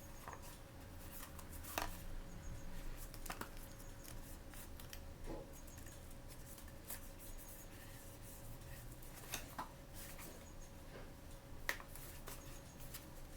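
Hands opening and handling small toy blind-bag packaging: scattered clicks, taps and short rustles, the sharpest about two seconds in and near the end, over a faint steady hum.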